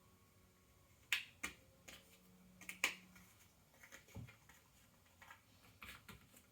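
Ravensburger cardboard jigsaw puzzle pieces being handled and set down on a table: a run of sharp, quiet clicks and taps, the loudest in the first three seconds, with one duller knock about four seconds in.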